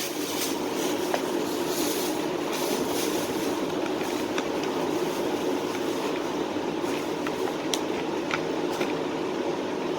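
A steady low drone, like a running motor or fan, unchanging throughout, with a few faint clicks on top.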